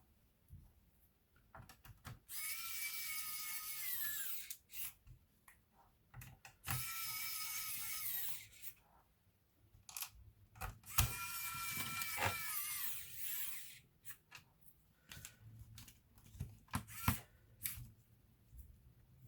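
A small power screwdriver whirs on laptop screws in three runs of about two seconds each. Its pitch drops as each run stops, and light clicks and taps come between the runs.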